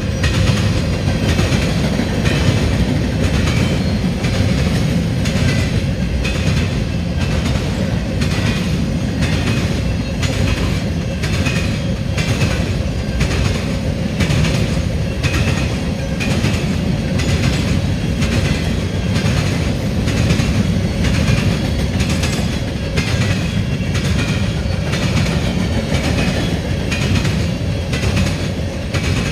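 Freight cars of a unit grain train rolling past at speed, with a loud, steady rumble and wheels clacking over the rail joints in an even rhythm.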